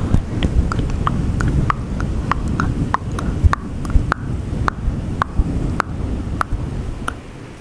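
Close-up ASMR mouth sounds: a regular series of sharp tongue clicks, about two or three a second, over a low rustling rumble from a fluffy microphone windscreen being rubbed.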